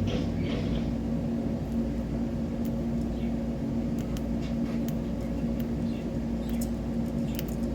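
A steady low electrical hum, with faint scattered clicks of a cockatiel cracking seeds from an open hand.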